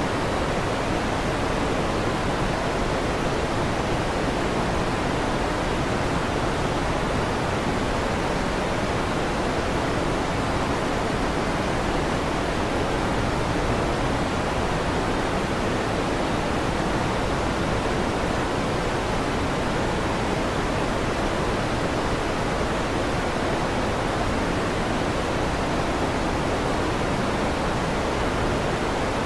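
Electric fan running, a steady, unchanging whoosh.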